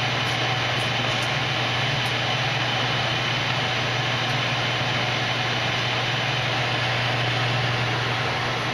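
Victor engine lathe running under power: a steady machine hum with an even whir of the drive, holding constant throughout.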